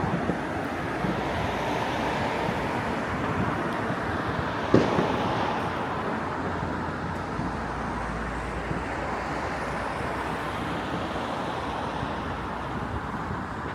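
Steady outdoor city background of traffic rumble with some wind, and one sharp firework bang about five seconds in, echoing briefly.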